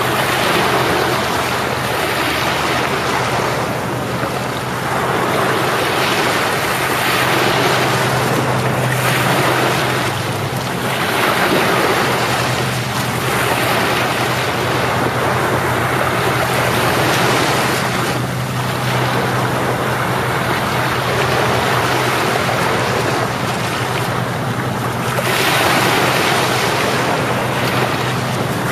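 Sea waves breaking and washing up on a beach, the surf swelling and easing again every three seconds or so. A steady low hum runs underneath.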